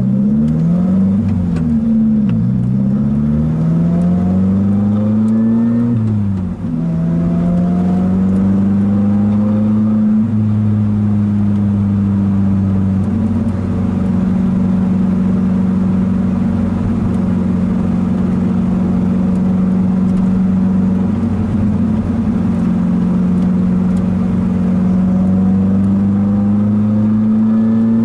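Lotus sports car's engine heard from inside the cockpit, revving up and dropping back through several gear changes in the first six seconds, then running at a steady, nearly even pitch at constant speed.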